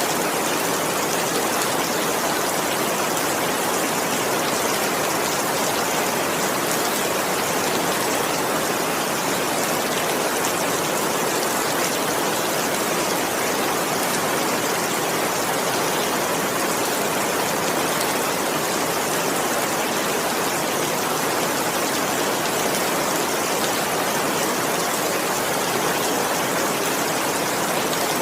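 Heavy rain falling steadily, an even hiss of dense drops without thunder.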